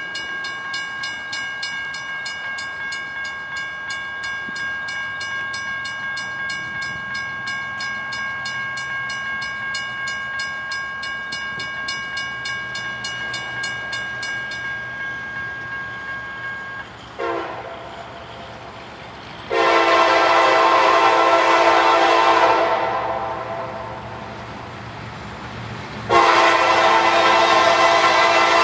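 A grade-crossing bell rings with quick, even strokes and stops about 15 seconds in, while a diesel locomotive's low rumble grows underneath. The locomotive's air horn then sounds its crossing signal: a brief blast, a long blast, and another long blast starting near the end.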